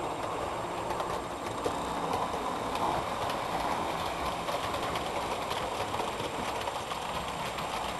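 Model train running on the layout track: a steady rolling rumble of motor and wheels with light, rapid clicking.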